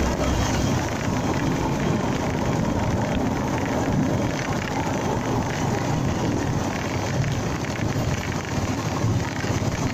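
Motorcycle riding noise: wind rushing over the camera's microphone, with engine and road noise mixed in, steady throughout.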